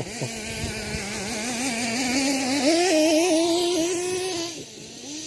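Kyosho Mad Force RC monster truck's small two-stroke nitro engine running, with a few knocks from the truck bouncing within the first second. About halfway through the revs climb with a wavering pitch, then ease back down near the end.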